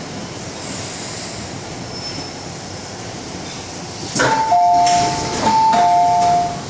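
Two-note electronic chime in a metro train or station, a higher note followed by a lower one, sounding twice about four seconds in over a steady background hum.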